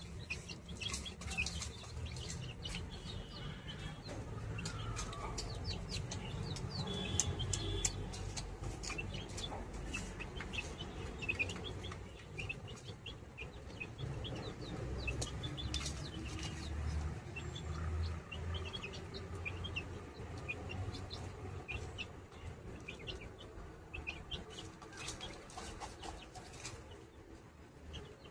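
Pet birds chirping and calling in many quick, short, high notes throughout, over a low background rumble.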